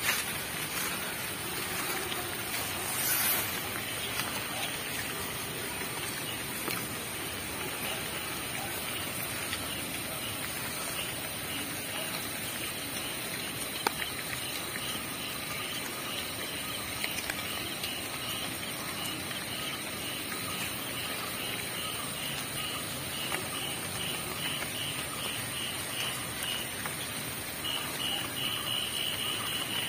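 Steady rushing of the Pamba river in flood, with a high chirping repeating about twice a second from about ten seconds in that runs into one continuous trill near the end. A single sharp click at about 14 seconds.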